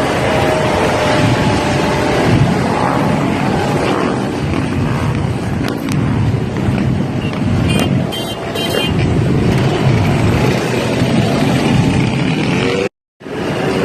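Motorcycle and quad-bike engines running in a steady, dense wash of engine noise, with a brief burst of high-pitched chirping tones about eight seconds in. The sound cuts out for a moment near the end.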